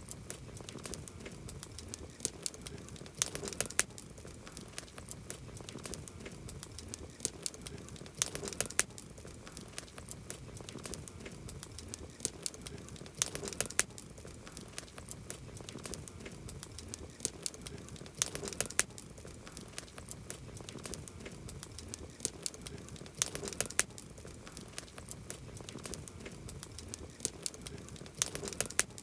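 Wood campfire crackling and popping, with a cluster of louder sharp pops about every five seconds.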